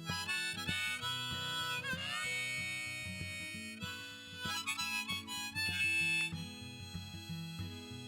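Harmonica solo over guitar accompaniment, an instrumental break between sung verses, with a bent note about two seconds in.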